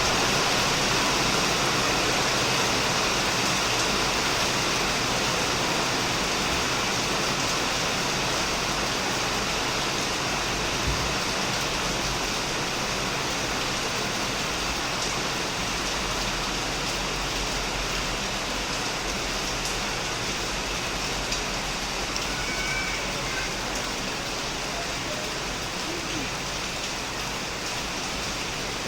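Heavy rain falling steadily on a shed and surrounding plants: a dense, even hiss of many drops with no distinct pattern, easing very slightly in loudness.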